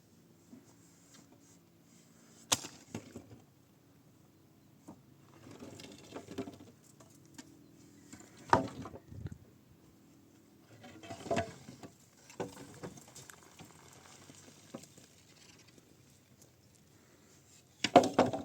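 Sporadic sharp knocks and stretches of scraping and rustling, about four distinct knocks with the loudest cluster near the end, over a faint steady low hum.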